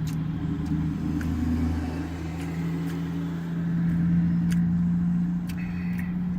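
An engine running steadily at idle, a low even hum that swells slightly midway, with a few faint clicks over it.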